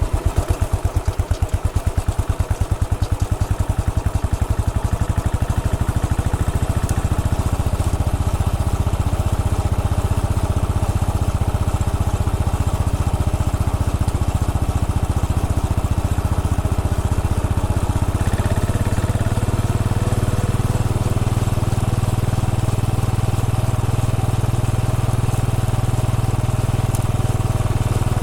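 Royal Enfield Bullet 500's single-cylinder four-stroke engine running as the motorcycle moves along at low speed. Its firing strokes are distinct at first, then the engine note grows steadier and changes about two-thirds of the way through.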